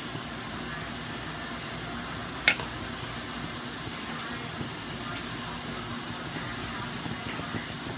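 Chicken pieces sizzling steadily in a wok on a gas stove, with one sharp click about two and a half seconds in.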